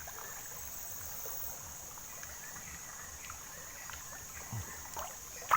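Riverside ambience: a steady high-pitched insect drone over faint water sounds, with a few light knocks near the end.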